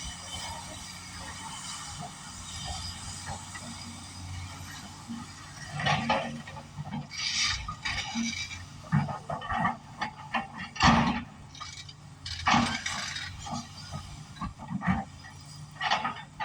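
Kobelco 380 hydraulic excavator's diesel engine running steadily, then from about six seconds in, repeated metallic clanks and crashes as the bucket digs and drops rock and debris.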